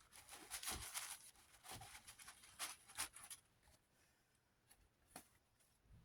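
Faint, irregular rubbing and scrubbing strokes of a plastic fan blade being wiped clean by hand. The strokes stop about three and a half seconds in, followed by a couple of soft ticks.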